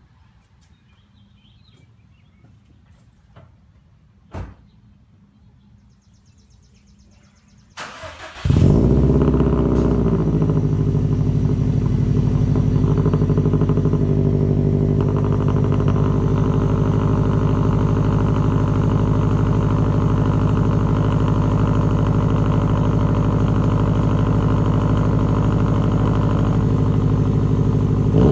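2015 Subaru WRX STI's turbocharged 2.5-litre flat-four cold-started: a brief crank about eight seconds in, then it catches and settles into a loud, steady idle through a catless Invidia downpipe and a Nameless axle-back exhaust with 4-inch mufflers. A few faint clicks come before the start.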